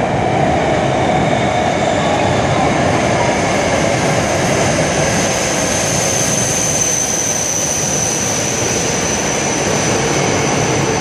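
Tohoku Shinkansen train running: a steady rumble and rush of noise, with a thin high whine that rises in level around the middle.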